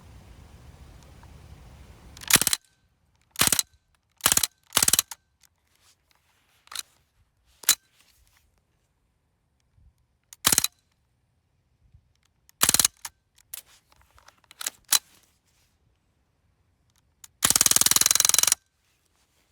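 Umarex Strike Force CO2 BB gun firing about ten single shots at uneven intervals, each a sharp pop. Near the end comes one longer noisy burst lasting about a second.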